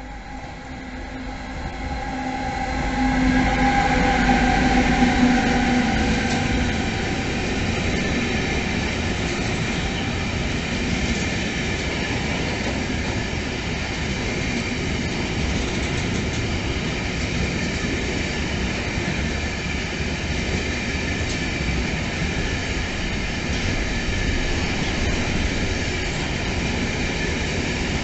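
EU46 (Siemens Vectron) electric locomotive passing with a freight train of T3000e pocket wagons carrying lorry semi-trailers. The locomotive's whine grows loudest and sinks a little in pitch as it goes by, about four to six seconds in. After that comes the steady rolling noise of the wagons' wheels on the rails.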